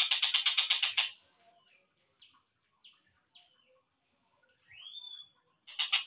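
Slowed-down recording of a tengkek buto (collared kingfisher) calling. It opens with a rapid rattling trill lasting about a second, followed by scattered short chips, a single rising whistled note about five seconds in, and a brief return of the trill near the end.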